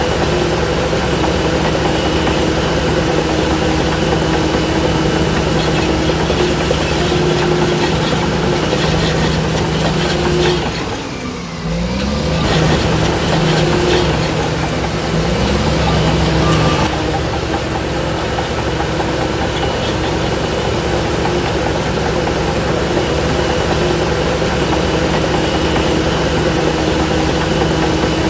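Heavy diesel engine of a Shantui DH17C3 bulldozer running under load with a steady drone. About eleven seconds in, the engine note drops sharply and climbs back up, then holds steady again.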